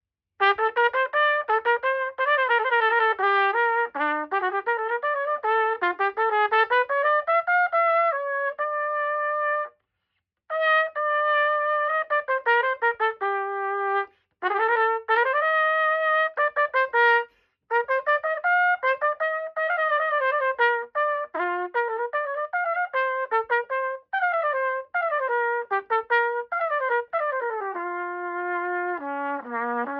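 Yamaha YTR-2330 trumpet played solo in fast scale-like runs and arpeggios, in several phrases with short breaks, ending on longer held notes, as it is play-tested after a repair following a drop.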